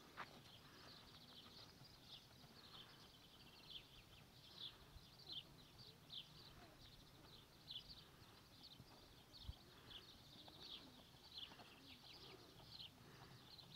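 Near silence: faint outdoor ambience with scattered short, high bird chirps, about one or two a second.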